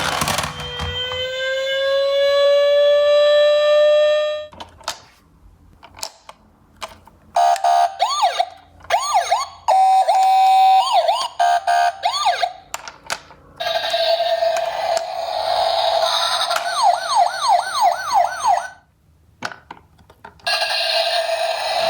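Electronic toy siren sounds from minicar emergency vehicles: first a slowly rising wail, then short wailing and fast yelping siren patterns switching on and off, with small clicks in the gaps between them.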